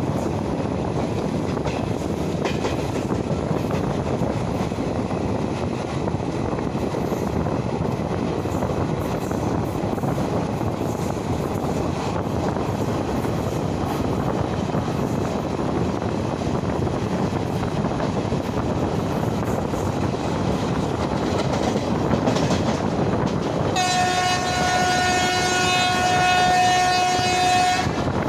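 A passenger train coach running at speed, heard from its open door: steady noise of wheels on the rails. About 24 seconds in, a train horn, most likely the hauling WAP-4 electric locomotive's, sounds one long, steady blast of about four seconds.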